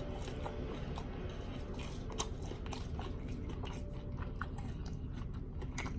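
A person chewing and biting food close to the microphone, with many short, irregular mouth clicks and crunches over a steady low hum.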